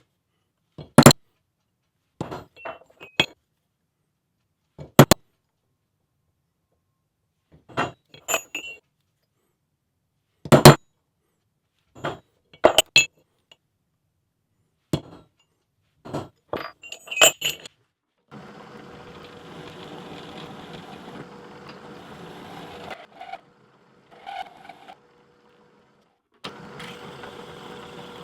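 Steel railroad spikes and tools being handled, with a series of sharp metallic clinks and knocks. From about two-thirds of the way in, an electric drill runs steadily in two stretches, drilling holes in the spikes.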